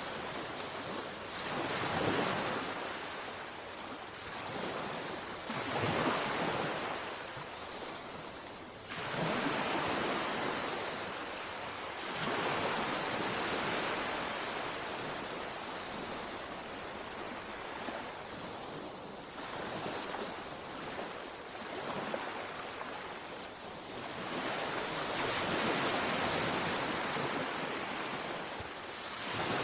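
Sea waves washing onto a shore, surging and receding every few seconds.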